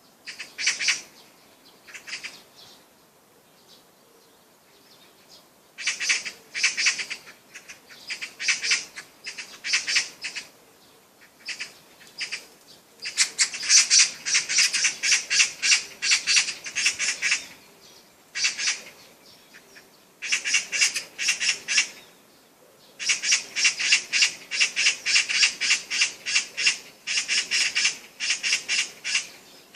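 A bird calling in runs of quick repeated notes, about five a second, in phrases of one to four seconds separated by short pauses.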